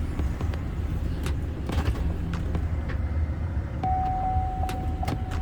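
Chevrolet Silverado's 5.3 L V8 idling with a steady low rumble and a few clicks as it is put into gear. A steady high tone comes in near the end.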